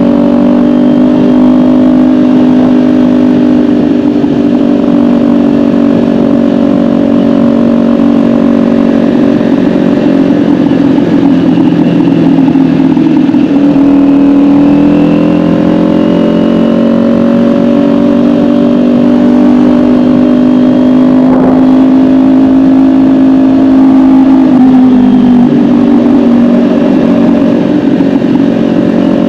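Kawasaki Ninja 400's parallel-twin engine running at a steady pitch while riding, the pitch sagging about halfway through and then climbing again, with a smaller drop near the end.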